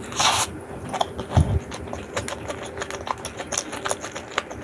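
Close-miked eating of chicken wrapped in seaweed and rice: crunchy chewing with many short clicks, a brief crinkly rustle near the start and a low thump about a second and a half in.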